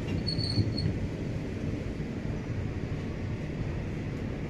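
A passenger train heard from on board while under way: the coach runs on the rails with a steady low rumble. A brief high squeal comes in the first second.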